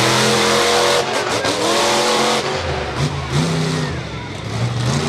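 A motor vehicle engine revving, its pitch rising and falling several times.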